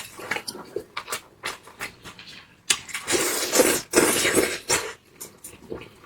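Close-miked eating sounds of gnawing meat off spicy lamb leg bones: wet mouth smacks and chewing clicks, with a louder, noisier stretch of sucking and tearing about three seconds in that lasts nearly two seconds.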